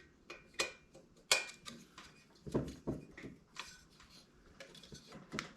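Scattered light clinks and knocks, about half a dozen, of small metal parts and tools being handled.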